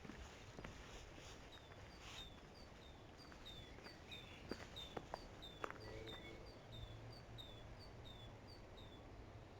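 A small bird calling faintly, repeating a short, high, falling chirp about two or three times a second, with a few faint clicks behind it.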